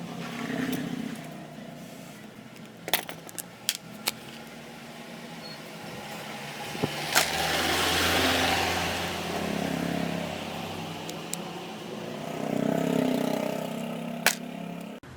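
An electric power tool motor running, its sound swelling and easing twice, with a few sharp clicks.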